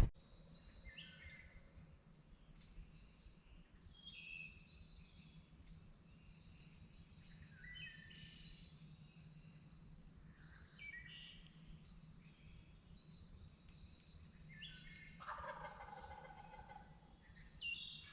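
A wild turkey gobbles once, faintly, about fifteen seconds in, over many small songbirds chirping and whistling throughout.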